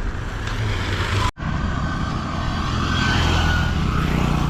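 Vehicle engine running and road noise while driving, the engine hum rising slightly in the second half. Near the end of the first second and a half the sound cuts out for a split second.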